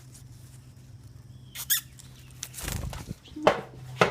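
A baby bird squeaking and fluttering as it is startled out of its nest: two short high squeaks, a brief rustle of wings and twigs, then a run of sharp calls near the end.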